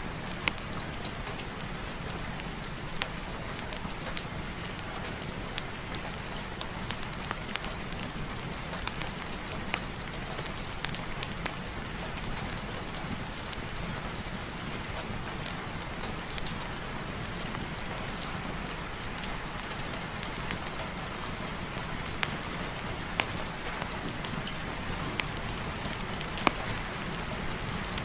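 Steady heavy rain falling, an even hiss with a low rumble beneath it, dotted with frequent sharp ticks and pops.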